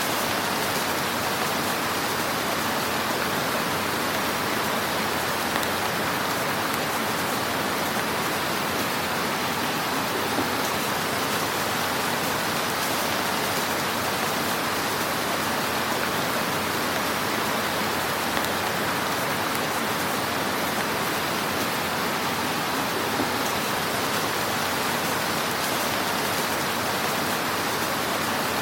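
Fire burning in a fireplace: a steady hiss with a few faint pops scattered through it.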